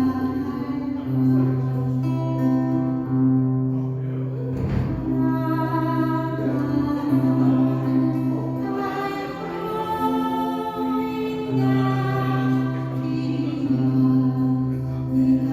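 A woman singing a slow Korean song live, over an accompaniment of long, held low notes and chords.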